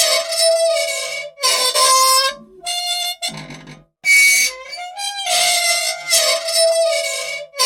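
Squeaky old machine squealing: a loud run of drawn-out, harmonica-like squeaks with short breaks and a few low knocks, repeating in a cycle about every six seconds.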